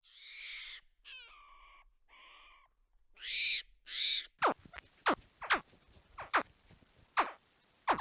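Animal calls: first a handful of short, hoarse calls, then a quick run of sharply falling whistle-like calls about two a second.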